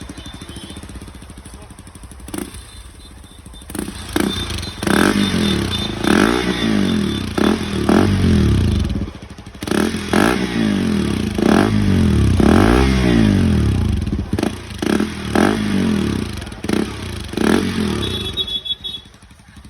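KTM RC200's single-cylinder engine through an aftermarket Akrapovic exhaust with the dB killer fitted, idling and then revved over and over in blips, with sharp cracks between the revs. The revving starts about four seconds in and stops shortly before the end.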